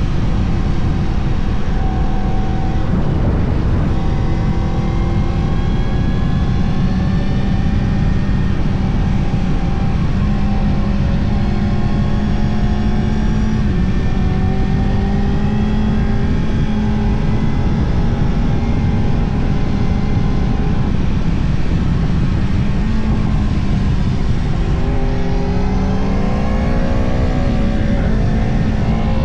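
Yamaha R1 inline-four engine running at riding speed, its pitch drifting slowly up and down with the throttle over a steady rush of road and wind noise. Near the end the engine revs up sharply through the gears.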